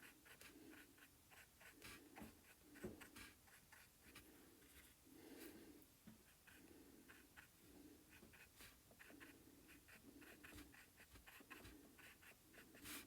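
Faint, short strokes of a small paintbrush dabbing acrylic paint onto paper, repeating about once a second, with soft taps.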